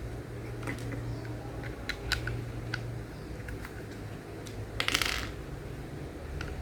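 Small hard plastic pieces clicking and tapping against one another, with a brief rattle of loose pieces about five seconds in, over a steady low hum.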